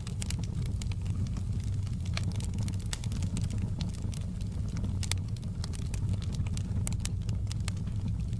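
Campfire burning: a steady low rumble of flame with frequent sharp, irregular crackles and pops from the burning wood.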